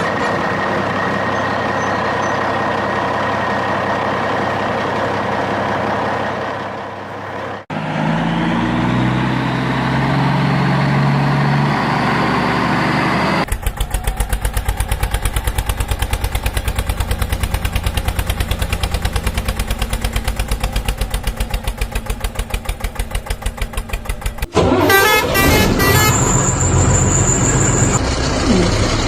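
Truck and tractor engine sound effects cut one after another: a steady engine note, then a rising rev, then a fast even chugging. Near the end a vehicle horn honks.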